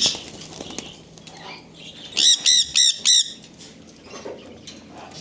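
A parrot calling four times in quick succession about two seconds in, each call short and arching up then down in pitch. Another loud call sliding down in pitch sounds right at the start, with faint calls of other caged birds around them.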